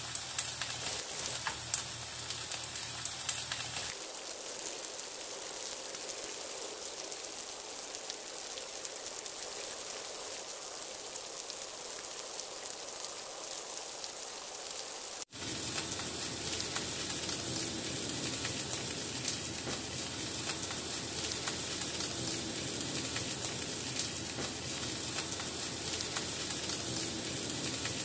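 Tofu, tuna and kimchi patties sizzling in oil in a nonstick frying pan, a steady hiss with a few sharp pops in the first few seconds. About halfway through the sizzle cuts out for an instant and comes back slightly louder.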